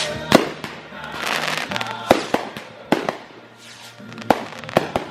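Fireworks bursting overhead: about seven sharp bangs, the loudest about a third of a second in, with a stretch of crackling between the first and second second.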